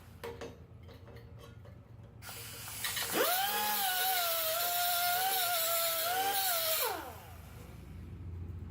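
3-inch pneumatic air grinder run on compressed air: a hiss of air, then the vane motor spinning up to a steady high whine for about four seconds before winding down.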